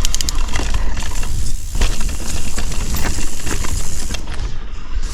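Mountain bike rolling fast over a rocky singletrack trail: steady wind rumble on the camera microphone, with tyre noise and frequent knocks and rattles from the bike over the rocks.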